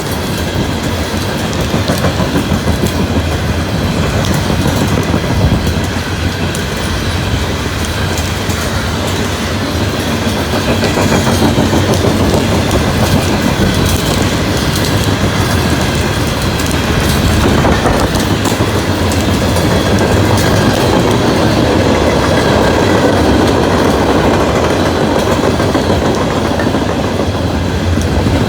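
Loaded Norfolk Southern coal train passing fast at close range, its wheels clattering over the rail joints. Pieces of coal blown off the cars pelt the ground all around, a dense pattering that sounds like hail.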